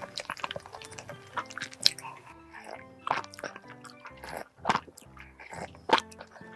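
Background music with close-up eating sounds: squishy bites and chewing of a cream-filled towel cake, with a few sharp, louder smacks.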